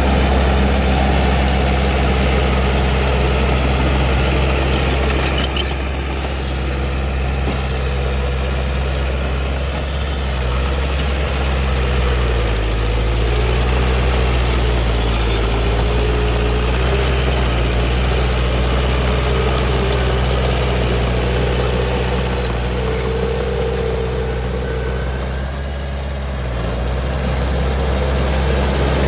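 Komatsu D31P bulldozer's diesel engine running steadily. Its note dips and shifts about twelve seconds in and again near the end, as the engine's speed changes.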